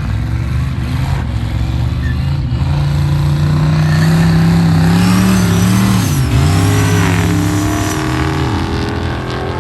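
Drag-racing car engine at full throttle, pitch climbing as it accelerates, dropping sharply once about six seconds in at a gear change, then climbing again before fading near the end.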